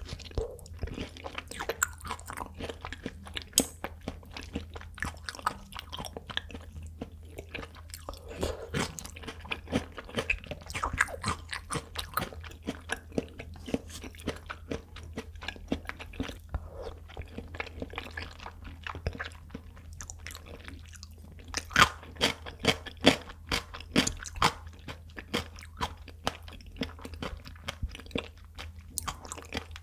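Close-miked wet chewing and mouth smacks of someone eating raw tuna sashimi, with many small clicks throughout. A run of louder, sharper clicks comes about two-thirds of the way through.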